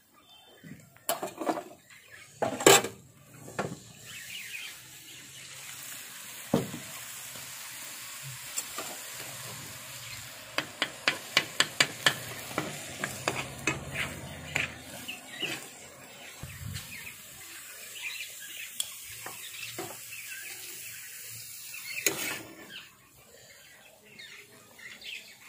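Pav bhaji curry sizzling on a hot black iron tawa while a flat metal spatula stirs and scrapes it, with a run of quick metal clinks of the spatula on the pan about halfway through. A loud knock comes a couple of seconds in.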